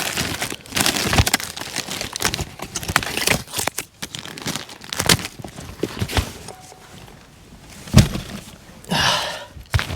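Plastic snack packaging being rummaged through and handled, crinkling and rustling with scattered clicks and knocks. A sharper knock comes about eight seconds in.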